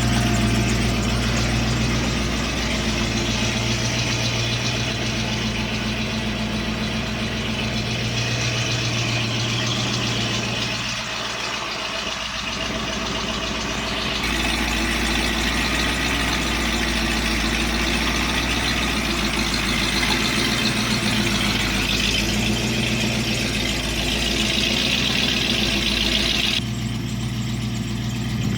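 Truck engine idling steadily with a constant low hum; the sound shifts slightly about fourteen seconds in and again near the end.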